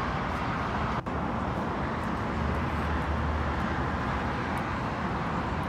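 Steady running noise of a Chinese high-speed train heard from inside the passenger car while moving: a low rumble under an even rushing hiss, dropping out for an instant about a second in.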